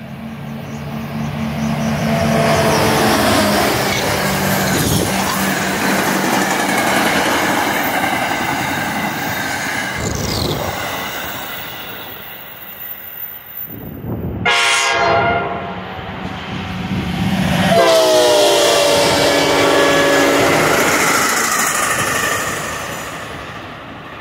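NJ Transit passenger trains passing close by, wheels clattering over the rails. After a sudden change about halfway through, a train horn sounds a short blast, then a longer, loud one.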